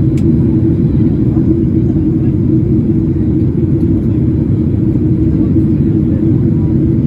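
Airliner engine noise heard inside the passenger cabin: a loud, steady rumble with a constant hum, with no change in pitch.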